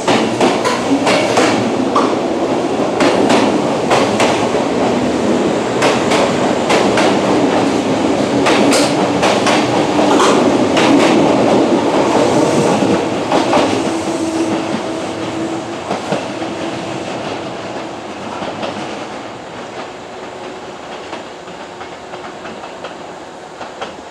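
Kintetsu electric train running over the rails, its wheels clacking over rail joints in quick irregular clicks, then fading steadily as the train moves away, the clicks thinning out over the last ten seconds.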